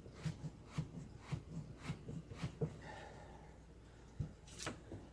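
Light clicks and small knocks of metal and plastic parts being handled, about two a second at first, then a few scattered ones near the end.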